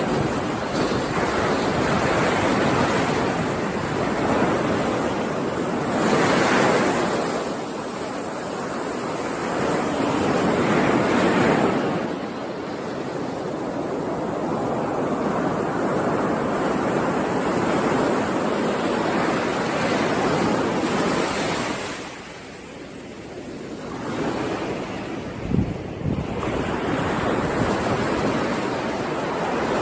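Ocean surf: waves breaking and washing in, the rush of water swelling and fading every few seconds, with a short lull about three-quarters of the way through. There is a brief low thump just after the lull.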